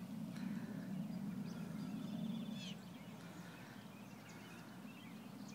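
Wild birds calling, with short chirps, a quick trill about two seconds in and thin falling whistles, over a low steady rumble that is strongest for the first two and a half seconds and then eases.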